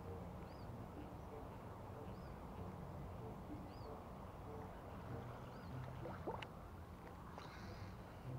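A bird repeating a short, high, arched chirp about every one and a half to two seconds, faint over a low steady rumble. A sharp click and a brief rising scrape come about six seconds in.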